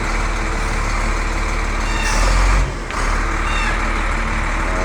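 Heavy diesel engine of a wheel loader working as it moves a stranded truck, a steady low rumble. About two seconds in a louder hissing surge rises for under a second, then cuts off sharply.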